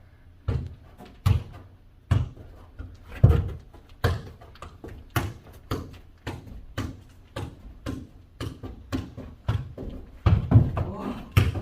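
Ball thudding again and again as it is kicked back and forth and bounces on the floor in a foot volleyball (jokgu) rally, a sharp thud every half second to second.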